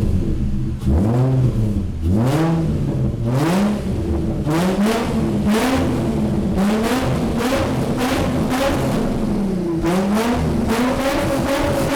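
Nissan 350Z's 3.5-litre V6, warmed up, revved over and over through a freshly built exhaust of 2.5-inch pipes joined by a Y into 3 inches with a muffler. The pitch climbs and drops about once a second, with a longer held rev near the end.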